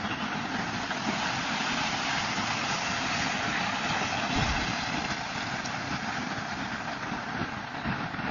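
Train going past, a steady, even rumbling noise.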